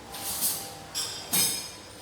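Tableware being handled: a few short scrapes and light clinks of dishes and cutlery, one about a third of a second in, one at about a second and one at about a second and a half.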